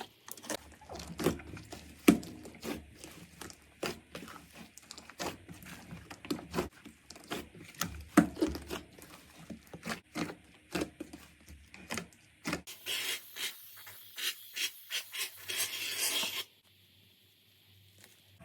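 Hands squeezing and stretching slime, with many sticky pops and clicks over a soft rubbing sound. A little after twelve seconds in it changes to a brighter, crunchier crackling. That crackling stops abruptly about two seconds before the end, leaving near silence.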